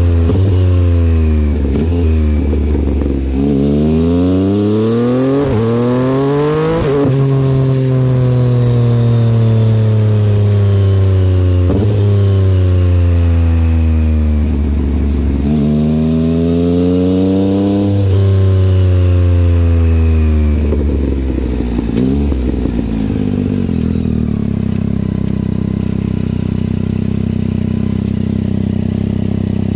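2022 Yamaha XSR900's inline-three engine through a Kelpi aftermarket exhaust, on the move. The revs climb and drop again and again as it changes gear, then settle to a steady run for the last several seconds.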